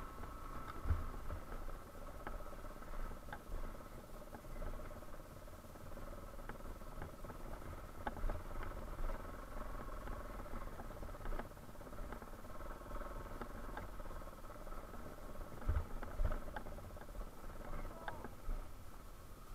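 Yamaha Serow 250's single-cylinder engine running steadily at low revs, heard faintly, with scattered light clicks and a few dull low thumps.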